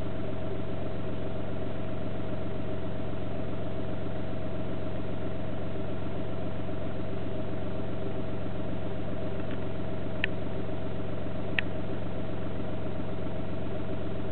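VW Polo 1.4 TDI three-cylinder diesel idling steadily at about 900 rpm, heard from inside the cabin, with the engine not yet warm. Two brief clicks come about ten and eleven and a half seconds in.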